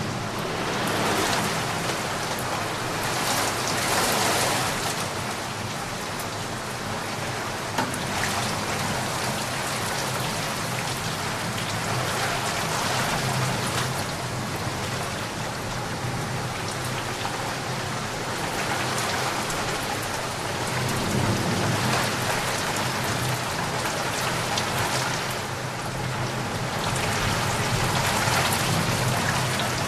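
Steady heavy rainfall, its dense hiss swelling and easing every few seconds.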